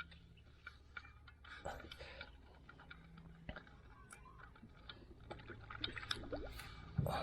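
Faint scattered clicks, drips and small wet sounds of water, with no speech, as a freshly caught trevally is handled on a kayak.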